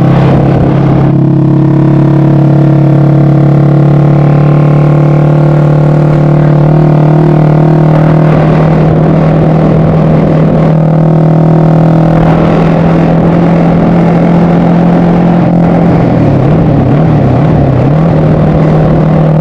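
Yamaha MX King motorcycle engine built up to 300cc, running loud at a steady, held speed. Its pitch wavers briefly near the end.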